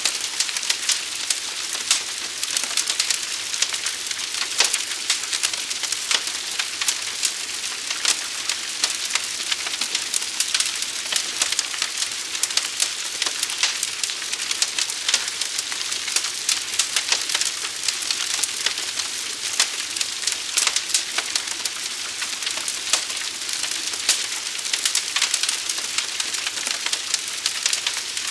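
Forest fire burning: a dense, steady crackling hiss with many sharp pops and snaps scattered throughout.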